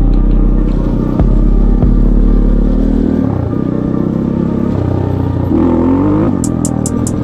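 Off-road vehicle engine running steadily on the move, with sharp knocks and rattles from the bumps in the first couple of seconds. Near the end the engine revs down and back up. Electronic music beats start in just before the end.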